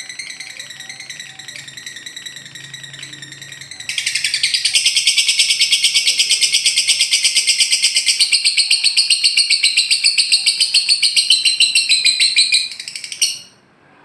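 Lovebird 'ngekek' song: high, busy chattering that breaks about four seconds in into a long, loud, rapid trill of about eight notes a second, which stops abruptly near the end.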